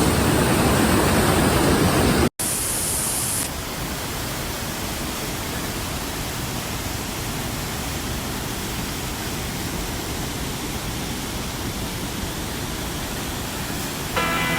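Steady rushing of a waterfall's falling water. A sharp cut about two seconds in, after which the rush goes on slightly quieter. Music starts right at the end.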